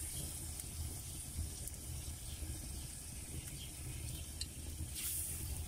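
Battered pieces of tongue frying in hot oil in a pan, with a steady sizzle.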